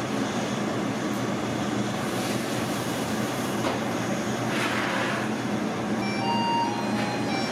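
Steady mechanical hum with a rushing noise, like machinery running, and a few brief thin high tones about six seconds in.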